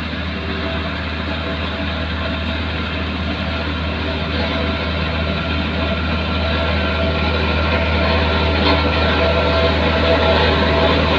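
Heavy diesel engine of construction machinery running steadily, its hum growing slowly louder.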